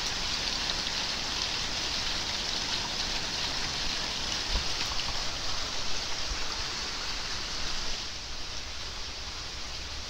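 Steady rain falling, an even hiss of many drops, with a few low thuds around the middle; it gets a little quieter about eight seconds in.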